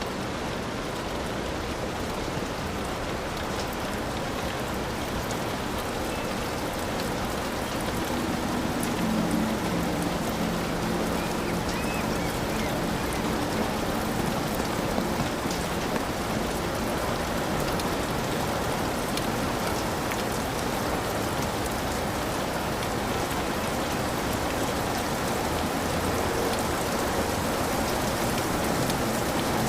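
Heavy rain falling steadily on a hut's roof.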